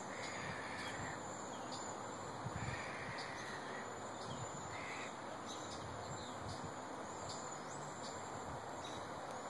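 Wild birds giving short, high calls, some falling in pitch, with a few brief buzzy notes among them, over a steady rushing background hiss.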